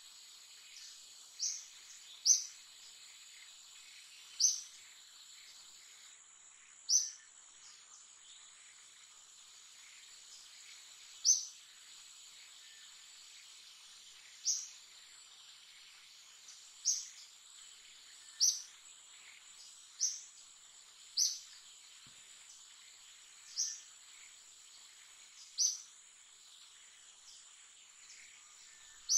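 A bird giving short, sharp, high chirps, about a dozen at uneven gaps of one to four seconds, over a steady high-pitched insect drone.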